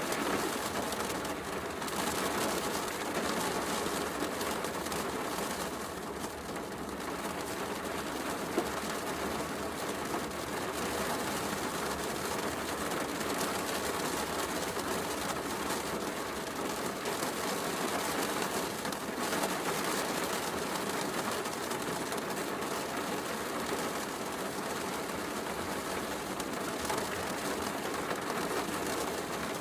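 Steady heavy rain with a fireplace crackling, one sharper pop about eight and a half seconds in.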